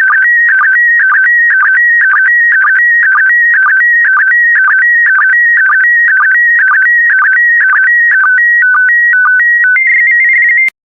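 PD120 slow-scan TV signal: shrill warbling tones that jump between two pitches in a pattern repeating about twice a second, each repeat one pair of image lines. Near the end the pattern shifts up to a higher, steadier warble as the last lines of the image are sent, then the signal cuts off suddenly.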